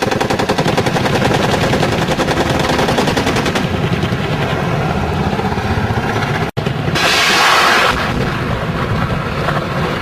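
Rapid automatic gunfire: a fast, even rattle of shots through the first few seconds, continuing more raggedly after a brief cut about six and a half seconds in.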